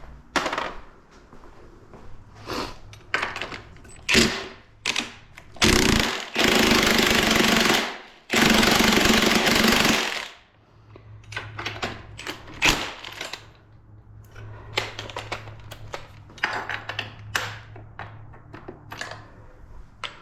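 Impact tool run in two bursts of about two seconds each, with a short gap between them, with clinks and knocks of hand tools on metal before and after.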